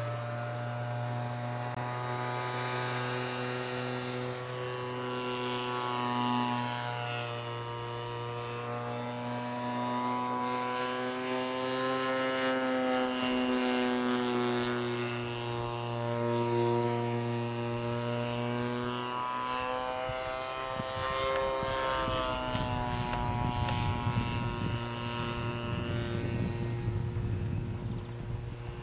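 Single-cylinder two-stroke Turnigy 30cc gas engine of a radio-controlled Yak-54 model plane in flight, its drone rising and falling in pitch again and again as the plane passes and manoeuvres, over a steady low hum. From about twenty seconds in, wind rumbles on the microphone.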